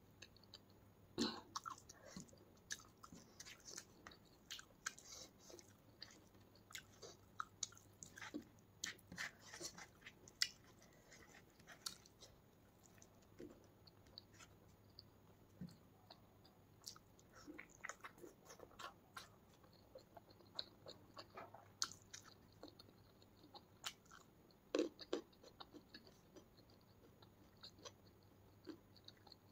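Close-miked chewing and mouth sounds of a person eating: irregular wet smacks and sharp crunchy clicks, scattered unevenly, a few of them much louder than the rest.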